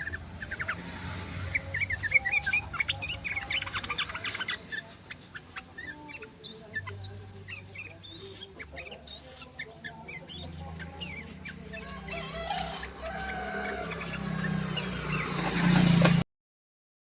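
Yellow-vented bulbuls (trucukan) chattering and calling in a dense run of quick chirps and trills over a low steady hum. The recording cuts off suddenly near the end.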